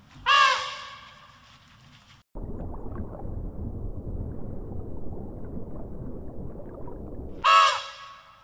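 Two short, loud, harsh animal calls, one just after the start and an identical one near the end, with a steady crackling, rustling noise between them.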